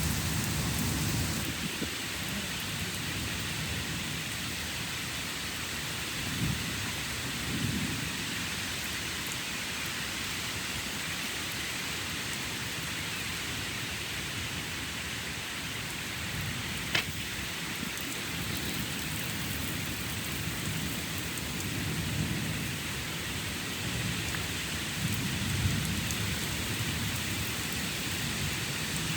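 Steady rain falling during a thunderstorm, with low thunder rumbling in and out: strongest near the start and again over the last several seconds. One sharp tick about two-thirds of the way through.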